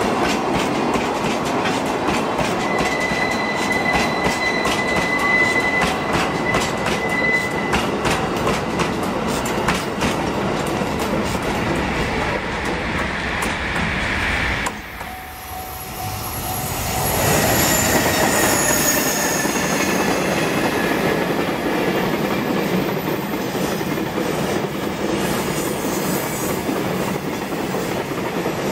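Loaded red hopper wagons of a freight train rolling past, clattering over the rail joints, with a steady wheel squeal for a few seconds. After a sudden cut a second freight train, a container train behind an EH500 electric locomotive, rolls by. Its wheels clatter, and a few falling tones are heard as it passes.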